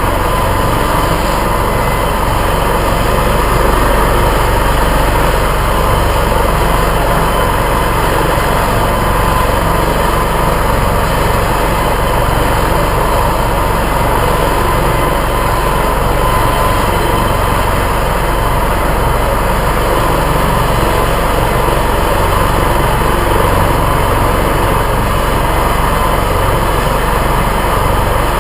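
Helicopter in flight: steady, unchanging turbine whine and rotor noise, with a constant tone in the upper range over a deep low drone.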